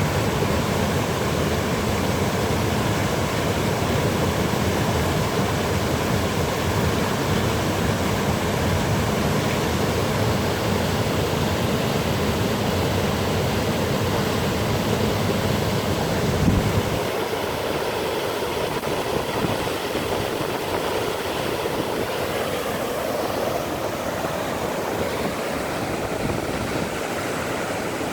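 Waterfall rushing with a steady, even noise. About sixteen seconds in there is a brief bump, after which the deep rumble drops away and the rush is a little quieter.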